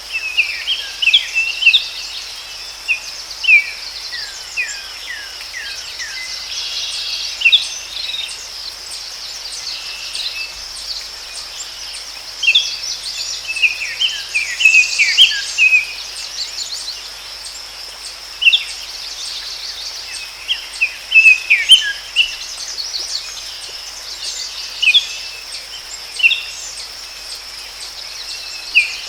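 Forest birds chirping and singing in quick runs of short falling notes, scattered irregularly, over a steady high insect drone.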